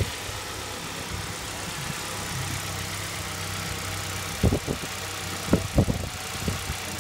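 Car engine idling steadily, with about five sharp knocks or clicks coming in a cluster in the second half.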